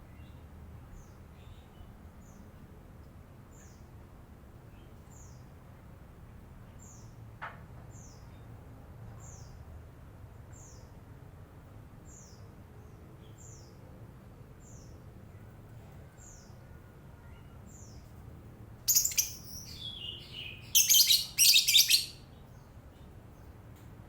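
Lovebird calling: a regular run of short, thin, high chirps, about three every two seconds, then loud, shrill screeching in several bursts near the end.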